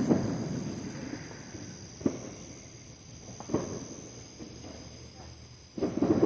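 Distant fireworks bursting: a sharp bang about two seconds in, another about three and a half seconds in, then a louder, longer boom near the end. A steady high chirring of insects runs underneath.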